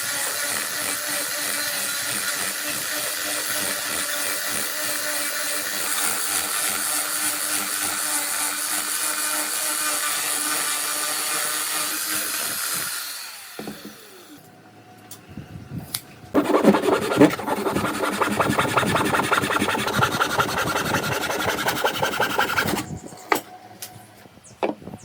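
Woodworking power tool running steadily on wood, winding down about halfway through; after a short lull a tool bites into wood again for about six seconds, then stops, followed by a few knocks.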